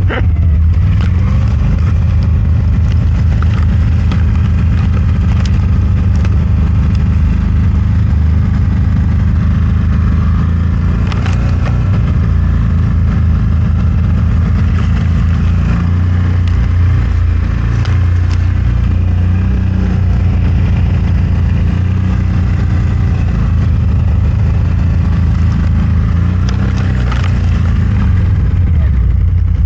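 CFMOTO Gen 3 1000's engine running steadily under load while driving through deep snow, with revs rising and falling near the end.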